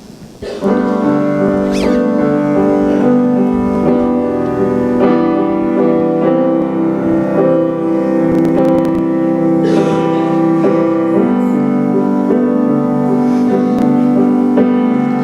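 Instrumental worship music: a keyboard plays held chords as the introduction to a song. It starts about half a second in, after a brief pause.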